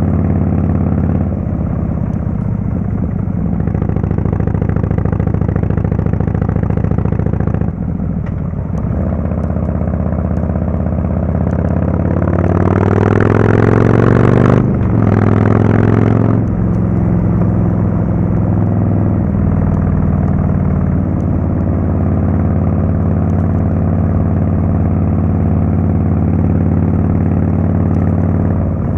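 Harley-Davidson Fatboy S's Screamin' Eagle Twin Cam 110 V-twin running through a Kesstech valved exhaust at steady cruising revs. About halfway through it accelerates with rising pitch, breaks briefly for a gear change, pulls again, then settles back to steady running.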